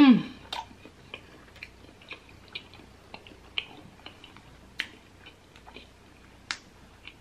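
A person chewing a mouthful of boiled egg close to the microphone: soft irregular mouth clicks and lip smacks, opening with a brief hum of the voice that falls in pitch.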